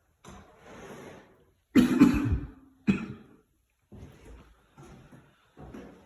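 A person coughing, the loudest cough about two seconds in and a second one about a second later, amid quieter short noises.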